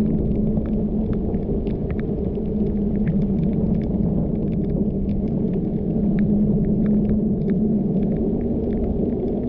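Car driving along a wet mountain road: a steady low rumble of engine and tyres with a held hum, and scattered light ticks over it.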